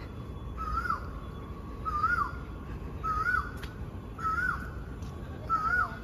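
A bird calling over and over: a short wavering whistle that rises and then drops, repeated five times at an even pace of roughly one every second and a quarter.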